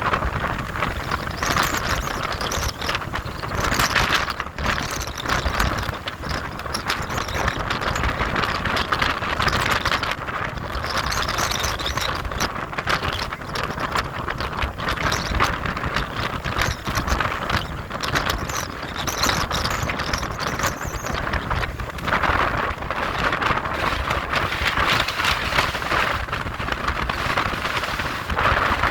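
Near-gale wind buffeting the microphone over a rough sea: a loud, continuous rushing noise with a low rumble, swelling and easing every few seconds.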